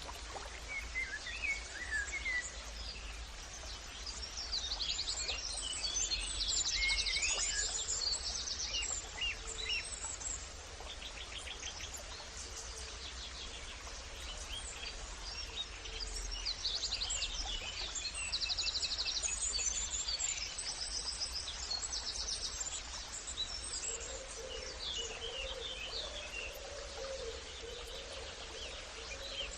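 Several songbirds chirping and trilling, their calls overlapping, with fast rattling trills among them. A lower, repeated warbling call joins about three-quarters of the way in, over a steady low background hum.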